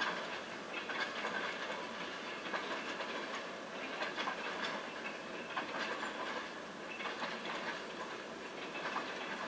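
Freight train cars rolling past, their wheels clicking and clacking irregularly over the rail joints above a steady rolling noise.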